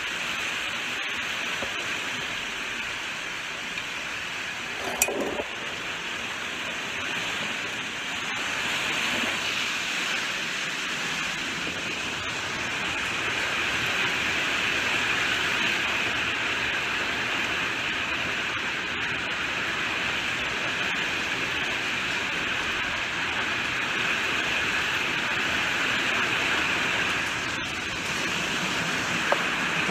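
Steady heavy rainfall, an even hiss of many drops, with one sharper tap about five seconds in.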